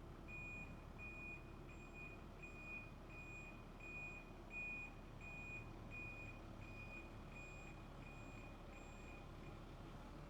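Faint, high electronic beeping, a short beep about every 0.7 seconds, thirteen in all, that stops shortly before the end, over a low steady background hum.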